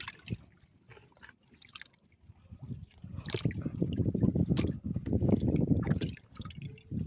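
Water dripping and splashing, with scattered small clicks and knocks; from about three seconds in it turns to a denser, louder low splashing.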